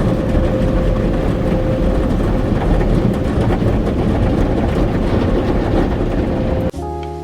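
Automatic car wash machinery running, heard from inside the car: a loud, steady rush of water and machinery with a faint steady hum. It cuts off abruptly near the end and acoustic guitar music begins.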